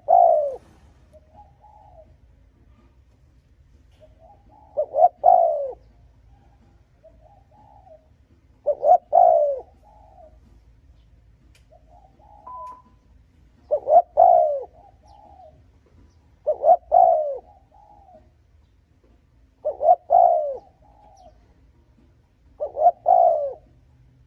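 Spotted dove cooing in repeated phrases, about seven of them, one every three to four seconds. This is the urgent bowing coo (gù) played as a decoy call to provoke wild doves.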